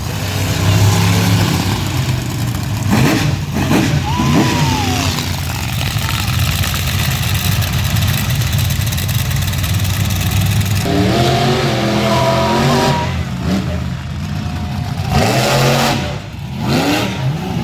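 Monster truck engine running loud and revving hard, with the pitch shifting as the throttle changes.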